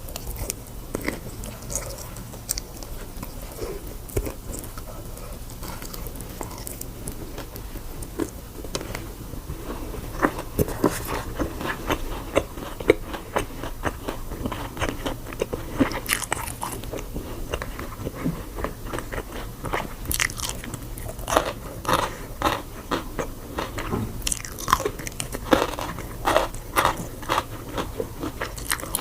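A person biting and chewing crunchy food, with many sharp crunches that come thicker and louder in the second half.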